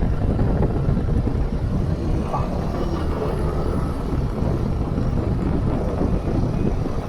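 Riding a motorcycle at speed: steady wind rush buffeting the microphone over the running engine.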